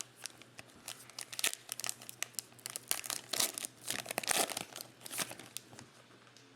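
Plastic wrapper of a trading-card pack being torn open and crinkled: a dense run of sharp crackles, loudest about three to four seconds in, dying away near the end.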